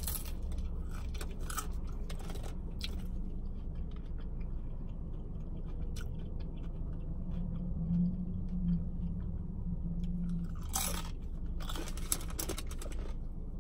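A person chewing and crunching fast food close to the microphone, with scattered short crunches, over a steady low hum.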